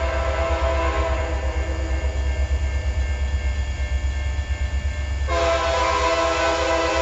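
Diesel locomotive air horn sounding a chord of several steady tones, which fades after about a second and a half and blasts again about five seconds in, over a steady low rumble of the passing train.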